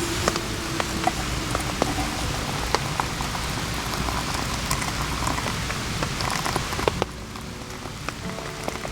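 Steady rainfall with many separate drops striking close by as sharp ticks. It becomes quieter and duller about seven seconds in.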